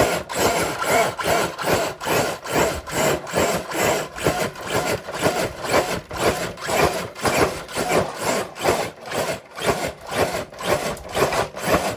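RC truck dragging a dead-weight pull sled, a rhythmic scraping of about two to three pulses a second that goes on without a break.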